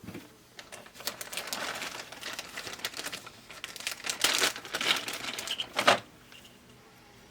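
Crinkling and rustling with many small sharp plastic clicks, as pinball pop bumper parts are rummaged through and handled; it stops about six seconds in.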